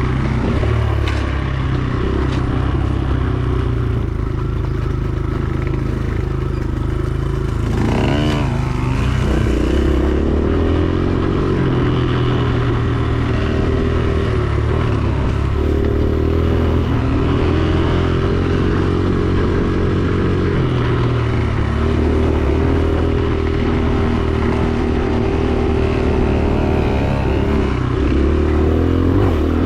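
Dirt bike engine running under way, its pitch rising and falling as the throttle changes, with a quick rev about eight seconds in.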